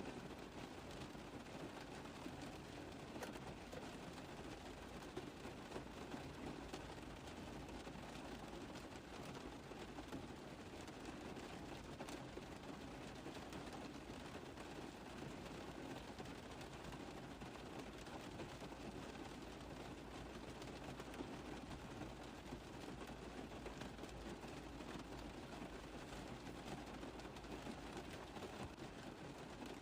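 Steady rain drumming on a car roof: a dense, even patter of many small drop impacts.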